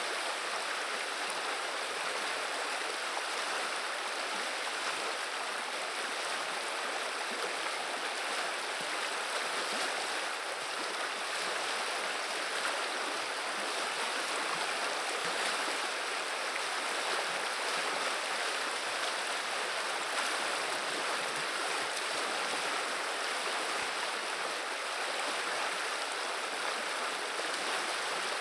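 The Viliya river's water running and murmuring, a steady, even rush with no breaks.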